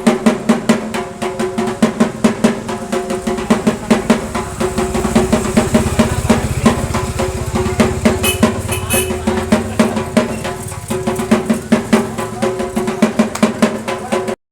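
Fast, continuous drumming over a steady ringing tone, cutting off suddenly near the end.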